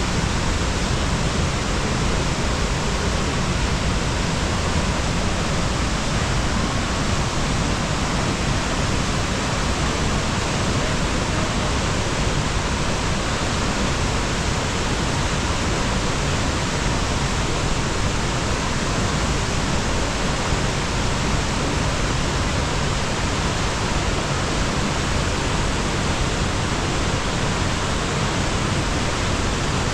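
Senga Falls waterfall: water pouring down hard in a steady, unbroken rush.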